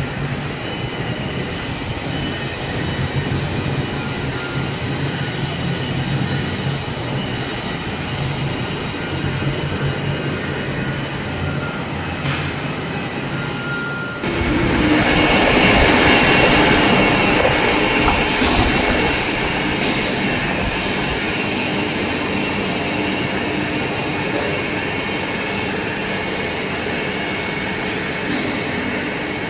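Vertical lathe running with the cutting tool working a rotating workpiece: a steady mechanical drone with a squealing edge. About 14 seconds in it suddenly gets louder and harsher, then settles back to a steady cutting noise.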